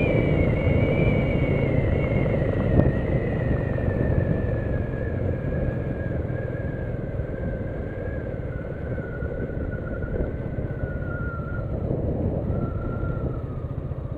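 Royal Enfield Meteor 350 motorcycle's single-cylinder engine running at speed under a heavy low rush of wind noise. A thin whine falls steadily in pitch and the sound eases as the bike slows down.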